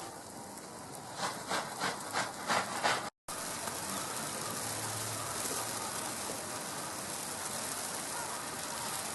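Snowstorm ambience: a steady hiss of wind and falling snow, with a quick run of about six crunching sounds a little after the start. The sound cuts out for a moment about three seconds in, then the hiss carries on.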